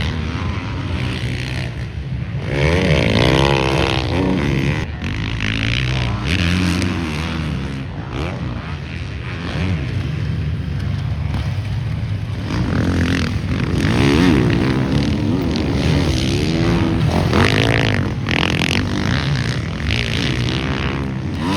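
Several motocross dirt bikes running on the track, engines revving up and down through the gears as riders pass, with louder passes of hard acceleration about three seconds in, around the middle and near the end.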